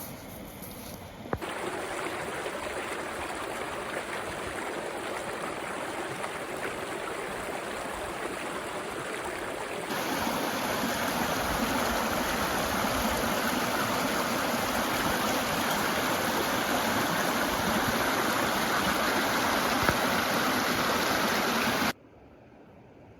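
Steady rush of running water, like a stream. The sound changes abruptly about a second in and again about ten seconds in, growing louder, and cuts off suddenly near the end.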